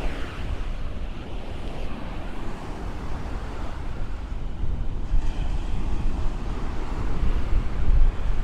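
Ocean waves breaking and washing up the shore, with wind rumbling on the microphone; a little louder in the second half.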